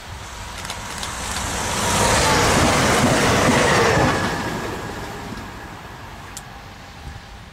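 Train passing through at speed: a rushing rumble that builds about a second in, is loudest in the middle, and fades away over the last few seconds.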